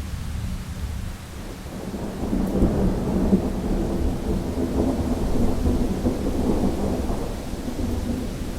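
Thunderstorm sound effect: a long rolling rumble of thunder that swells about two seconds in and slowly dies away, over steady rain.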